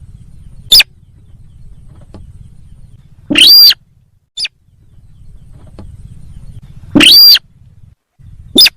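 Lure call of the sintar sawah bird, played for bird hunting: loud calls repeated every second or two, short sharp notes alternating with longer calls that rise and fall in pitch, over a low steady hum.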